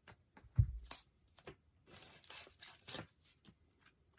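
Packaging being torn open and handled: a series of short tearing and rustling rasps, busiest around the middle, with a dull low thump about half a second in.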